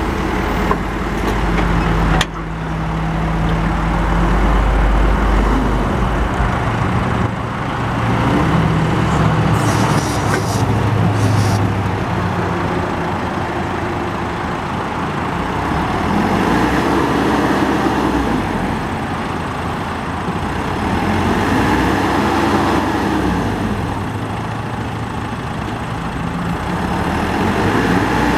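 Caterpillar 426C IT backhoe loader's turbocharged diesel engine running while its hydraulics are worked, the engine note rising and falling several times under load. A sharp clank comes about two seconds in.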